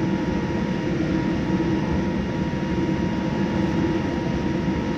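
Steady cabin noise inside a Boeing 787-9 airliner: an even rumble of engines and airflow, with a few constant humming tones running through it.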